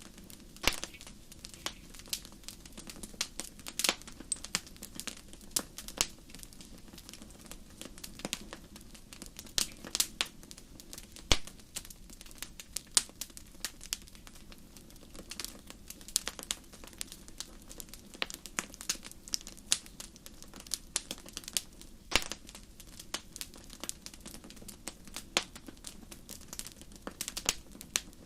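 Wood fire crackling: irregular sharp pops and snaps, some much louder than others, over a low steady rumble.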